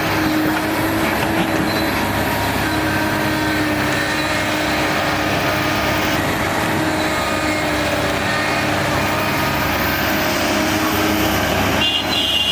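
Heavy diesel earthmoving machinery running steadily at work, a constant loud engine drone with a steady hum.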